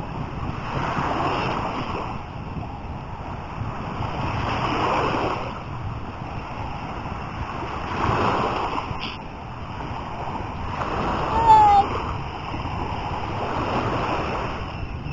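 Sea waves washing onto a beach, the surf swelling and fading about every three to four seconds. About eleven seconds in, a brief high tone falling in pitch rises above it.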